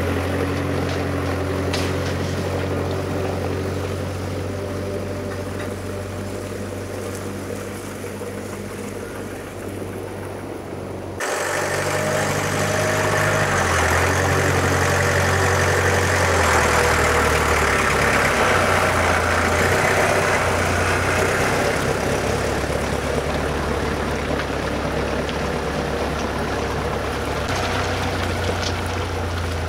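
Land Rover Series 3 engine running as the vehicle drives off, its low steady note fading over the first ten seconds or so. After a sudden cut it is louder and closer, the engine note stepping in pitch a few times as the vehicle moves across the yard.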